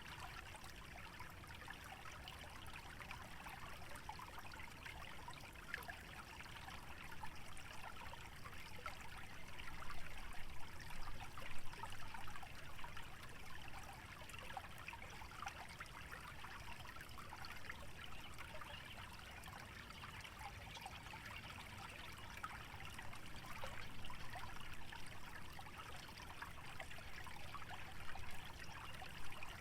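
Small wetland stream trickling and babbling steadily, louder for a couple of seconds about ten seconds in.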